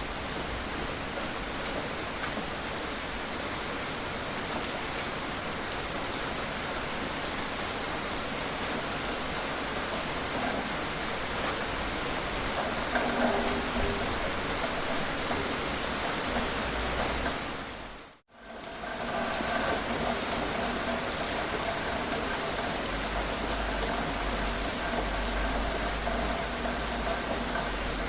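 Steady gentle rain falling and pattering on surfaces. About two-thirds of the way through it fades out to near silence for a moment and quickly comes back in, like a loop point in the recording.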